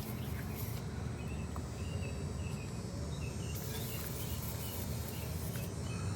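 Outdoor background ambience: a steady low rumble with faint short bird or insect chirps repeating through the middle.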